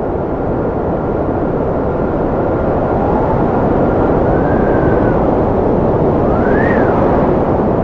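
Strong wind blowing: a loud, deep rushing noise with a thin whistle over it that holds one pitch, then rises and falls, climbing to a sharp peak near the end.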